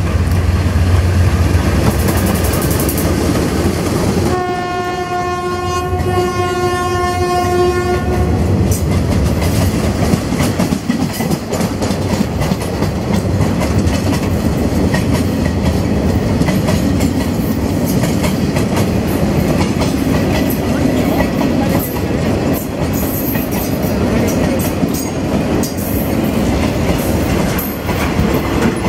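A train passing through the station. Its locomotive horn sounds once, a steady note held for about four seconds, over the running of the train. Then the cars roll by with a steady rumble and clatter of wheels over the rail joints.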